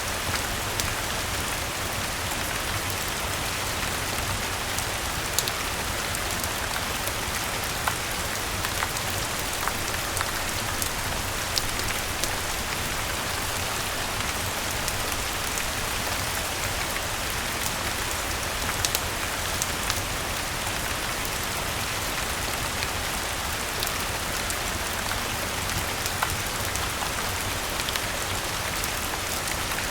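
Steady rain falling, an even hiss with a low rumble underneath, mixed with scattered single sharp pops from a crackling fireplace.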